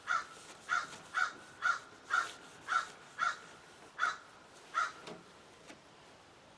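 A crow cawing over and over, about nine harsh caws at roughly two a second, stopping about five seconds in.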